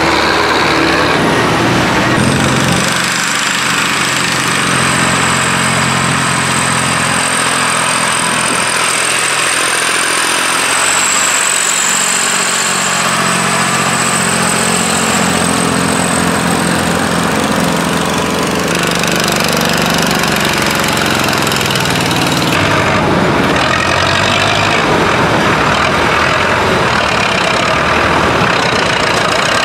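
Tractor engine running loudly, its pitch shifting up and down several times as it revs, with a high thin whine over it for much of the time.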